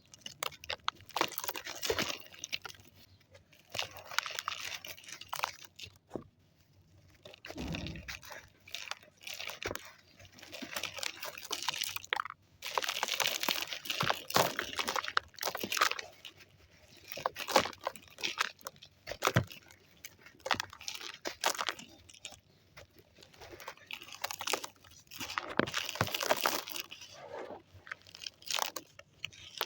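Dry white sand crumbling, a gritty crunching and crackling that comes in repeated bouts separated by short pauses.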